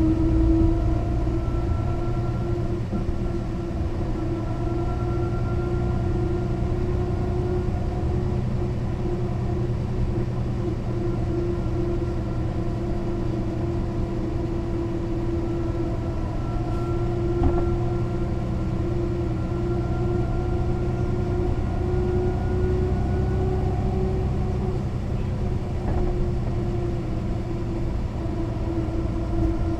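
A Mercedes-Benz O 405 NÜ low-floor bus driving, with the diesel engine and drivetrain running steadily. A whine rises slowly in pitch twice as the bus picks up speed, and there is a single short knock about halfway through.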